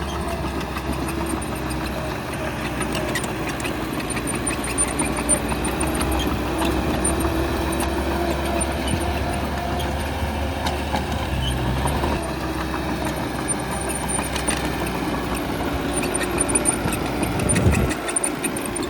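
Bulldozer's diesel engine running steadily while working, with scattered metallic clanks. Near the end the engine note briefly drops and comes back up.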